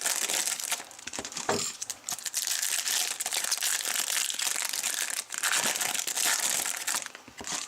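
Foil wrappers of 2014 Bowman Chrome football card packs being torn open and crinkled while the cards are handled: a dense, continuous crackling and rustling, easing briefly near the end.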